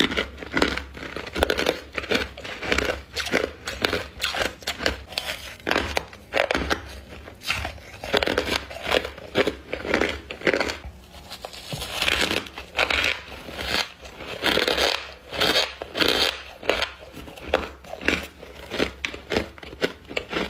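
Crunchy bites into crushed ice coated in humidifier frost, one crisp crackling crunch after another without pause, over a steady low hum.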